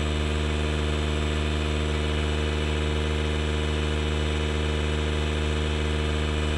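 DeWalt DCC020I cordless air inflator's compressor running steadily, a steady motor hum, as it pumps up a large tube-type truck tire.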